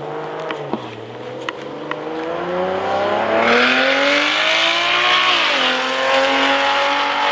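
Turbocharged Toyota 1JZ straight-six engine accelerating hard, its pitch climbing steadily for several seconds, then dropping sharply at a gear change about five seconds in and pulling again more steadily. A loud rushing hiss joins the engine note from about halfway through.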